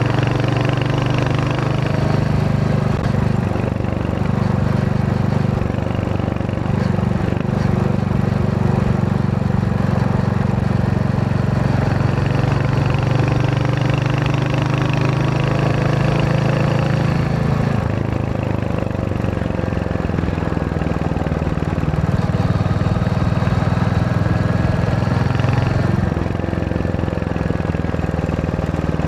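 Royal Enfield Hunter 350's single-cylinder engine running under way, its exhaust note steady but changing pitch every few seconds as the throttle and gears change.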